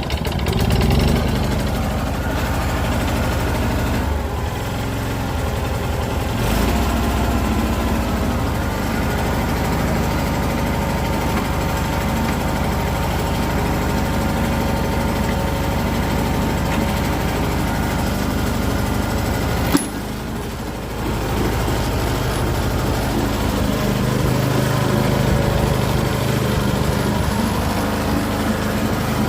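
Small engine of an Iseki walk-behind cultivator running steadily, rising slightly about a second in. Near two-thirds of the way through there is a sharp click and the engine sound dips briefly before carrying on.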